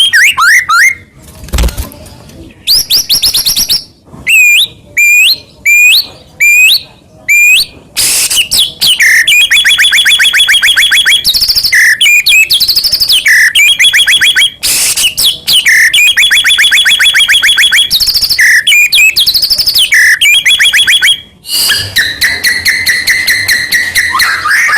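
White-rumped shama (murai batu) singing loudly. A string of separate, sharply rising whistled notes comes first, then long, fast trills of rapidly repeated notes broken by short pauses.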